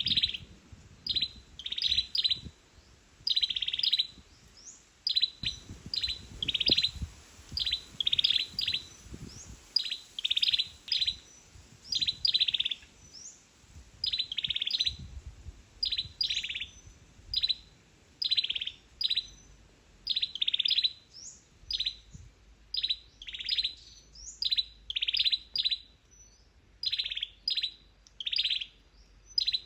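A small bird calling with short, high, sharp chirps, singly and in quick clusters of two or three, about one to three a second, with a low rumble underneath at times.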